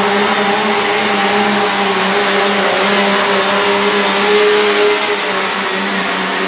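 Diesel pickup truck engine running hard at high, nearly steady revs under load, loud, with a slight swell in loudness about four and a half seconds in.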